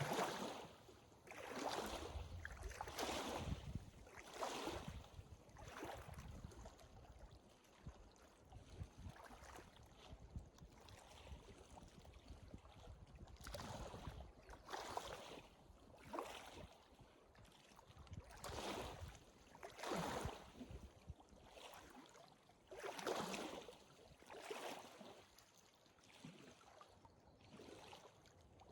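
Hiker's footsteps on a trail, one step about every second and a half, fainter for a stretch in the middle.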